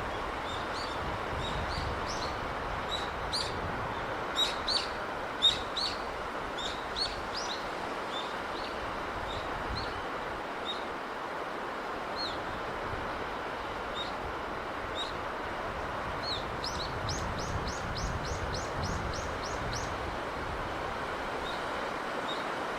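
Small birds chirping in short, high notes over a steady rush of sea breeze. The loudest chirps come a few seconds in, and a quick, even run of about a dozen notes comes about three quarters of the way through.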